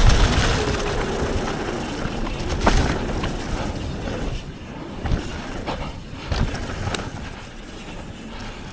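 Mountain bike rolling down a dirt trail: steady rushing wind on the microphone and tyre noise, with scattered sharp clicks and knocks as the bike rattles over bumps. The rush is loudest at first and eases off.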